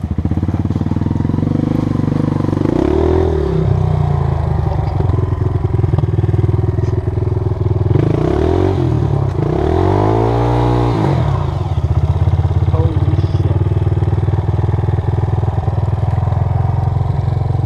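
Honda CRF230 dirt bike's single-cylinder four-stroke engine running steadily, revved up and back down a few times, most strongly around eight to eleven seconds in.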